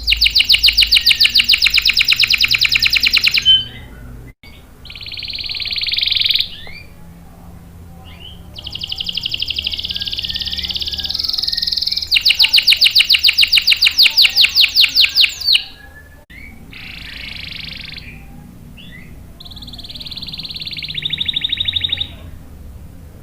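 Domestic canary singing in phrases of a few seconds each. Phrases of very fast repeated trill notes come at the start and in the middle, and several buzzy rolled phrases fall between them, with short pauses between phrases.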